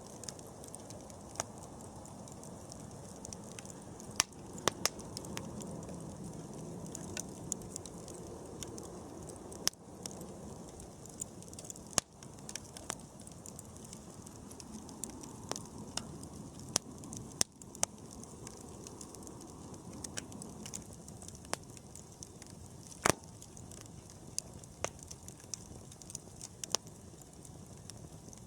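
Wood campfire burning: irregular sharp crackles and pops, a few much louder than the rest, over a low steady rush of the flames.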